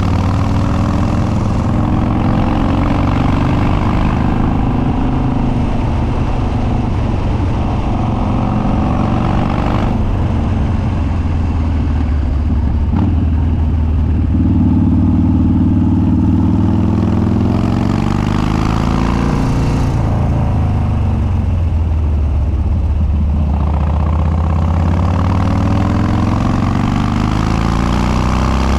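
Harley-Davidson Twin Cam V-twin of a Dyna Street Bob with Andrews 48H cams and unbaffled upswept dual exhaust, running loud under way: the exhaust note rises with the throttle and drops back several times, as it accelerates and eases off through the gears.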